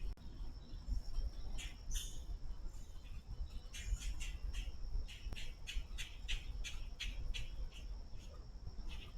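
A woodpecker calling in a quick series of short, sharp notes, about three or four a second for several seconds, with a few single notes before and after, over a steady high insect drone.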